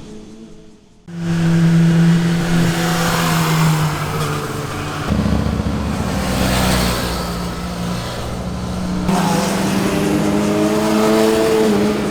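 Sport motorcycle engines running at high revs as bikes accelerate past. The sound nearly fades out in the first second, then a loud engine comes in suddenly; the engine note changes abruptly about five and nine seconds in, rising again near the end.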